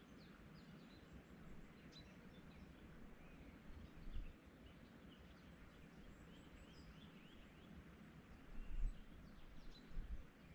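Small songbirds chirping in many short, quick calls, faint against a steady outdoor hush. A few brief low rumbles stand out, once about four seconds in and several times near the end.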